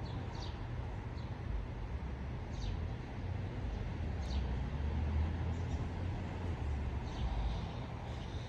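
Steady low outdoor rumble with short, high bird chirps scattered through it, roughly one every second or two.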